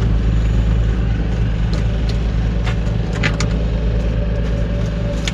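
Vehicle engine idling steadily, with a few light clicks in the middle.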